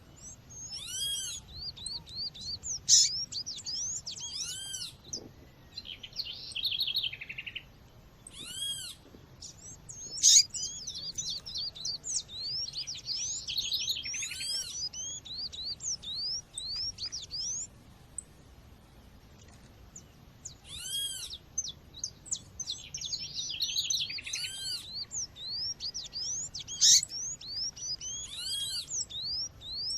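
Female Sporophila seedeater (coleiro or papa-capim) giving short, arched call notes every few seconds, over a dense background of other small birds chirping and twittering. There are two short lulls, one about a third of the way in and a longer one around the middle.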